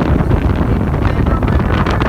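Wind buffeting the microphone on a moving boat: a dense, steady low rumble.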